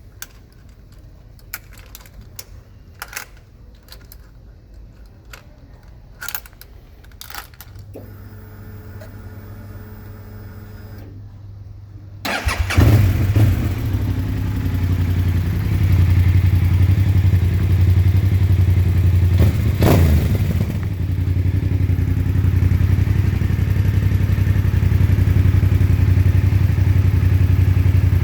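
Yamaha TDM900's parallel-twin engine with a GPR Furore Nero aftermarket exhaust. After a few clicks and a short steady whine, the engine starts about twelve seconds in and settles into a steady idle, with one quick rev near twenty seconds.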